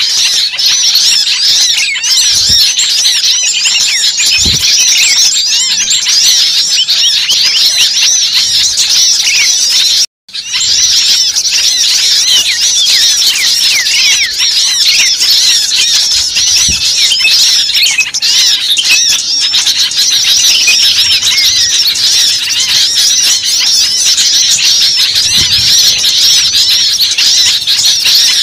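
Bird-lure recording of a dense, agitated chorus of many small birds, with rapid high chirps, squeals and twitters overlapping without pause. The sound cuts out completely for about half a second a little after ten seconds in, then resumes.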